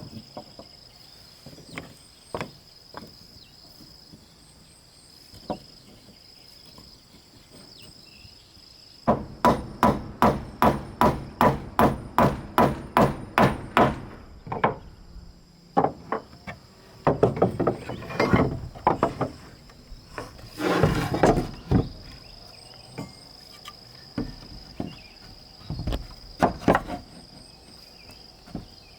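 Hammer striking wood: a few scattered knocks, then a quick even run of strikes, about three a second for some five seconds, then slower, irregular blows. A steady high insect drone continues underneath.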